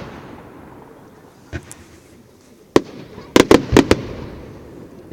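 Fireworks exploding: a faint bang about a second and a half in, another near three seconds, then a quick cluster of about five sharp bangs, each trailing off in a fading rumble.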